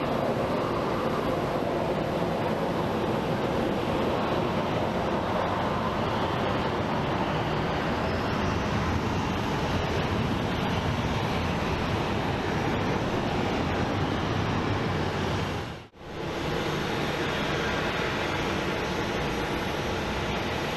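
Jet airliner engines running, a steady loud rush of noise, broken by a brief sudden dip to near silence about three-quarters of the way through.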